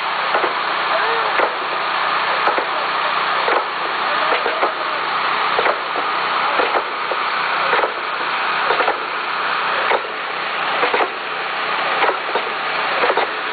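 Steady machine noise with a regular knock about once a second, from equipment at a rail welding and de-stressing job, with faint voices.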